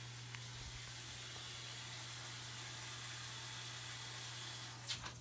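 Water hissing into a top-load impeller washing machine, steady, then cutting off suddenly with a click about five seconds in, as the fill valve shuts.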